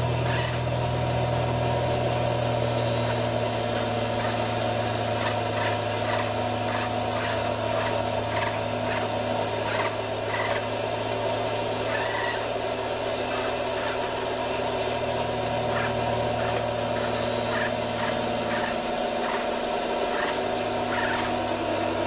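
Radio-controlled model machine running: a steady motor whine and hum with scattered small clicks and scrapes. The low hum drops out briefly about 19 seconds in, then comes back.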